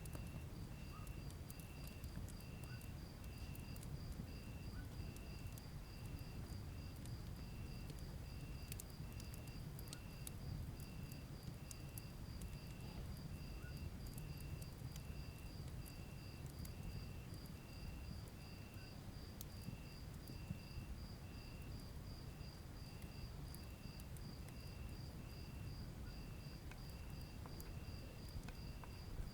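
A wood fire burning with a low steady rumble and occasional faint crackles, under two crickets chirping in even rhythms: a higher one about three times a second and a lower one a little more than once a second.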